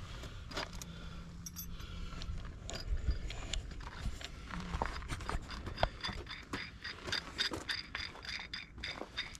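Irregular metal knocks, clinks and scraping as steel brackets on a tractor attachment are handled and set into a quick-hitch.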